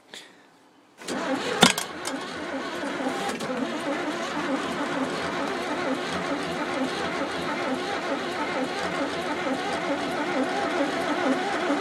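Oliver Cletrac AG-6 crawler tractor engine catching on a cold start, its first start in 15 years: it fires suddenly about a second in with one sharp pop, then runs steadily.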